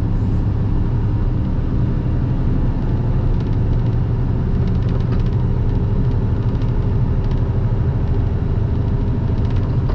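Semi truck's diesel engine pulling steadily up a long grade, heard from inside the cab as a constant low drone with road and tyre noise.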